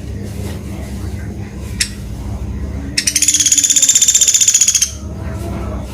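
Pelatuk beras (Sunda pygmy woodpecker) giving a rapid, high trill about two seconds long, starting about three seconds in. A single sharp click comes a little before it, over a low steady rumble.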